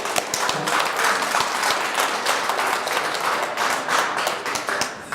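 Audience applauding: steady clapping of many hands that eases off slightly near the end.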